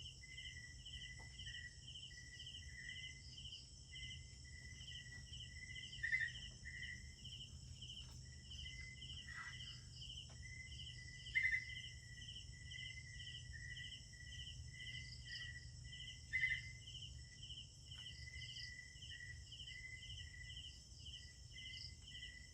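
Night chorus of crickets and other insects: steady high-pitched trilling with a regular pulsing call about twice a second, and three louder chirps spaced about five seconds apart.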